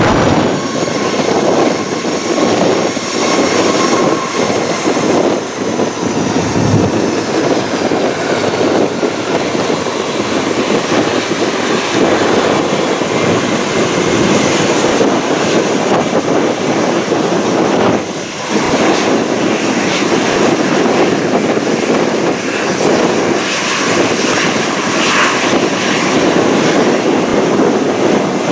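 Loud, steady jet airliner engine noise, with a faint high whine that slowly falls in pitch over the first several seconds.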